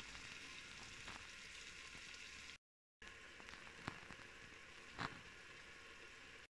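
Faint sizzling and bubbling of masoor dal frying in ghee in a pot on a low flame, at the stage where the ghee has separated at the edges. Two soft pops stand out about four and five seconds in, and the sound drops out completely for a moment a little before the middle.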